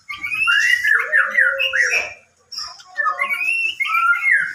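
White-rumped shama singing: quick, varied whistled phrases of rising and falling notes with a brief pause near the middle.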